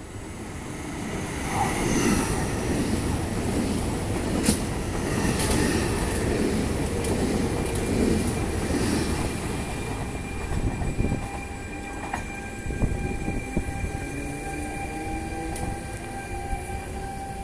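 Two coupled Alstom Pop (ETR104) electric multiple units passing through a station without stopping. The rumble builds over the first couple of seconds, then runs loud with a rhythmic beat of wheels over the track as the cars go by, and eases off as the train moves away, leaving a thin steady whine.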